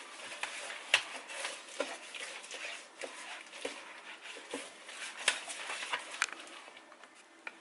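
Scattered light clicks and knocks of dishes and containers being handled on a kitchen counter, at irregular intervals.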